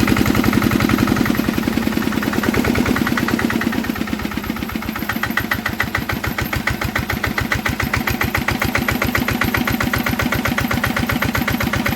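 Old Enfield stationary diesel engine running with an even beat of firing strokes, dropping a little in level about four seconds in as its speed is set to where it needs to be.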